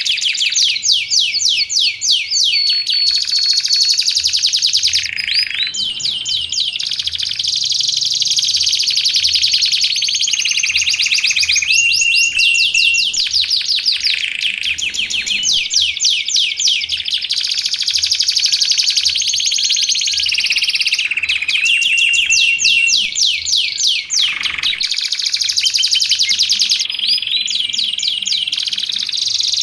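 Domestic canary singing without a break: fast rattling trills and quick runs of notes, with a short held whistle every few seconds.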